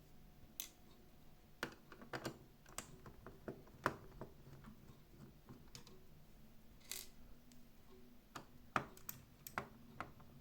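Irregular small clicks and taps of hand tools and plastic parts as a Xiaomi Mijia 1C robot vacuum is taken apart, about a dozen in all, the sharpest about four seconds in and near nine seconds.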